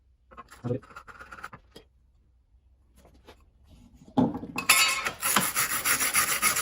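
A few light knocks and handling sounds, then about four seconds in a hand tool starts scraping in quick repeated strokes over the metal exhaust mating surface of a Viking 15 hp outboard, cleaning off old gasket and sealant.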